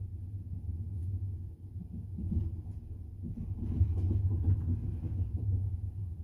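Double-decker passenger train running, heard from inside the carriage: a steady low rumble of the wheels on the rails, with irregular knocks and rattles of the wheels and car body.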